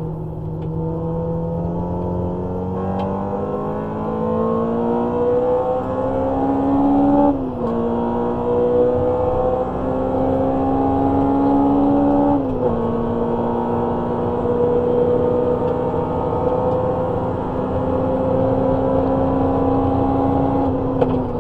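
Honda Civic EG6's 1.6-litre B16A VTEC four-cylinder heard from inside the cabin under hard acceleration: the revs climb, fall sharply at two upshifts about seven and twelve seconds in, then hold high and steady before starting to drop right at the end.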